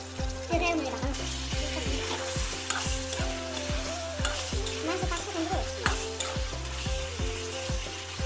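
Chicken pieces sizzling in a thick gravy in a metal kadhai while a spatula stirs and scrapes them around the pan. Background music with a steady beat plays under it.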